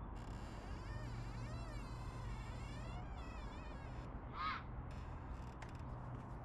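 Golden retriever whining in high, wavering tones, with a louder rising-and-falling whine about four seconds in.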